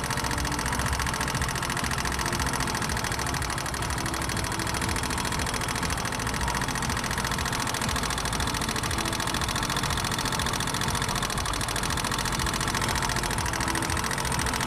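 Motorcycle engine idling steadily, with a fast, sharp metallic ticking from the top of the engine. This is tappet noise from the valve train, typically from too much tappet clearance, a loose adjuster screw and nut, or worn rocker arms.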